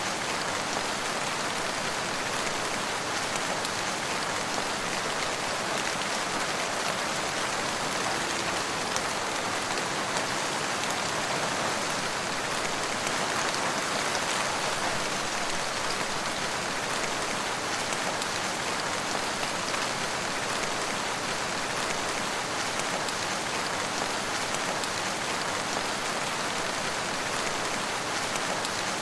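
Steady rain falling on surfaces, an even hiss of many small drops with no breaks.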